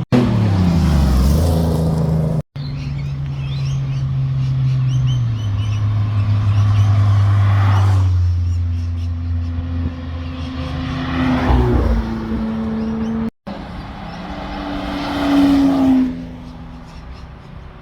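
Sports car engines accelerating and driving past in several short clips joined by abrupt cuts. Engine pitch drops in the first clip, holds steady and low in the middle, and the loudest pass swells and fades about 15 to 16 seconds in.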